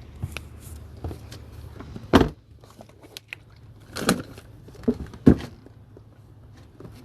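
A few scattered knocks and clunks, the loudest about two seconds in and again around four and five seconds in, over a faint low hum.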